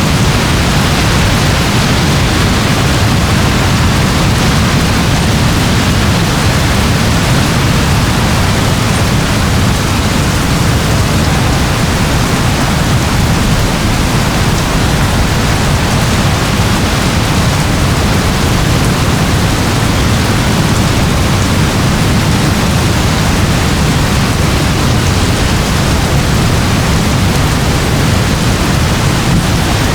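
Steady rain, an even hiss with a deeper rumble underneath that does not change.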